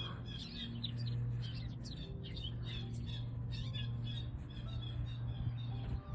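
Backyard birds chirping and singing in repeated short calls, over a steady low hum.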